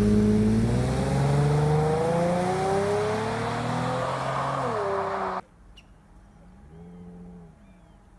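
Infiniti FX35's 3.5-litre V6 accelerating hard, its note climbing steadily in pitch for about five seconds before dropping. The sound then cuts off suddenly, and a much fainter engine note rises and falls briefly about a second later.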